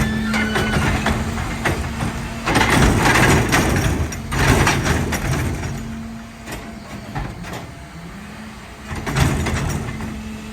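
Peterbilt 520 rear-loader garbage truck running with a steady engine hum. Three loud noisy bursts come over it: about two and a half seconds in, about four and a half seconds in, and near the end.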